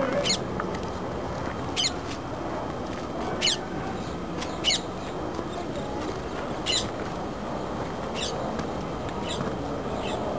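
A bird calling over and over outdoors, a short high call every second or two, over a steady low rushing noise.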